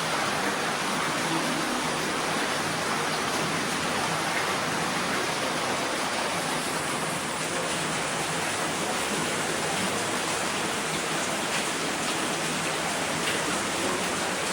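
Waterfall with water rushing in a steady, even wash of sound that holds at one level throughout.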